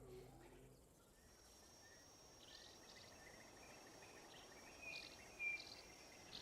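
Faint bush ambience: a steady high insect whine with a few short bird chirps scattered through it.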